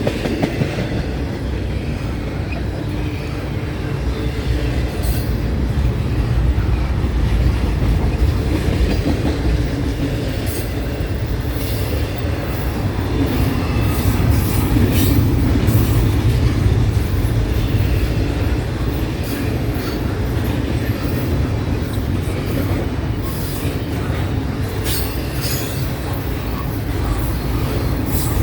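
Freight train's intermodal platform cars rolling past: a steady low rumble with repeated wheel clicks over the rail joints and faint, intermittent wheel squeal.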